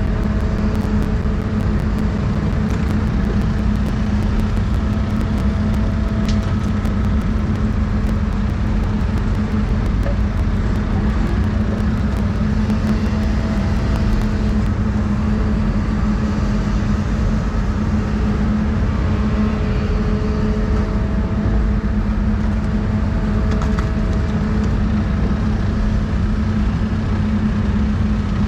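Doosan 350 excavator's diesel engine running at a steady drone, with faint higher whines coming and going over it.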